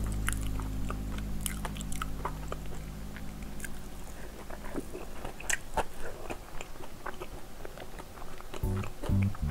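Close-up eating sounds of a fried streusel (soboro) bun filled with sweet red bean paste being bitten and chewed: many sharp crackly clicks from the crust, and wet chewing.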